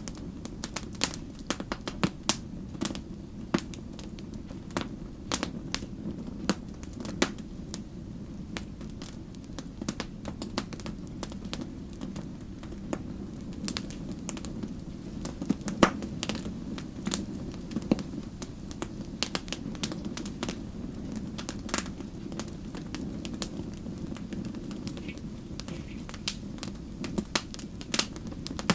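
Campfire burning: a steady low rumble of flames under irregular sharp crackles and pops from the burning wood.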